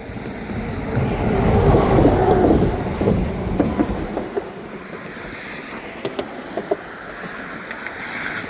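Escanaba & Lake Superior freight train rolling past, loudest about two seconds in, then wheels clicking over the rail joints.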